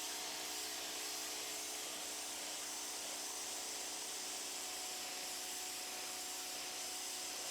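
Pressure washer running steadily: a continuous hiss of the water jet spraying over a steady motor hum.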